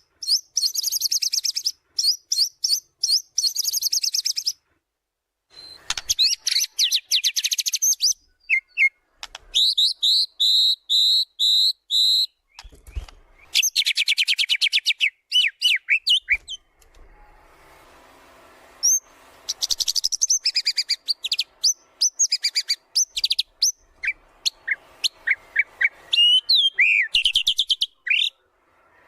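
White-rumped shama (murai batu) in full song: rapid, chattering trilled phrases broken by short pauses, a run of four repeated two-part whistled notes about ten seconds in, and varied rising and falling whistles near the end.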